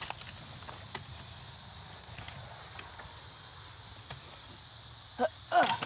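Steady high-pitched insect chorus, such as crickets, with scattered faint snaps and rustles of movement through brush. A brief louder creaking crunch comes near the end.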